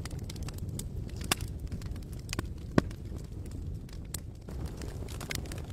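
Campfire crackling: scattered sharp pops and snaps over a steady low rumble, the loudest pop a little before the middle.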